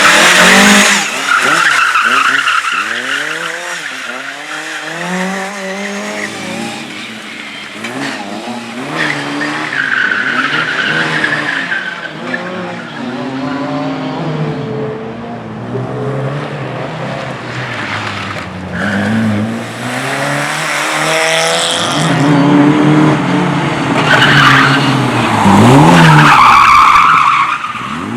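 Race car on a slalom course, its engine revving up and dropping back again and again as it accelerates and brakes between turns, with tyres squealing in the corners. The squeal is loudest near the start and again near the end.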